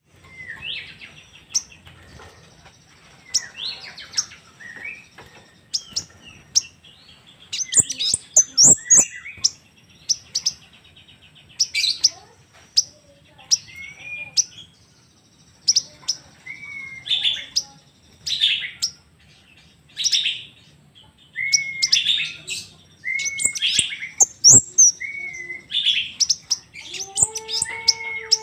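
Crimson sunbird calling: many quick high-pitched chirps and short trills, some with a quick slurred note. A few lower arching notes come near the end.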